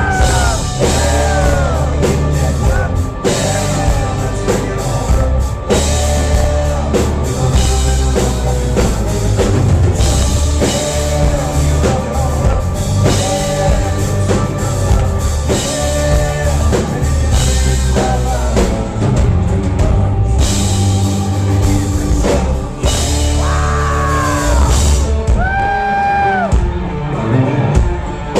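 Country-rock band playing with a driving drum kit and a sung lead vocal over a heavy bass beat.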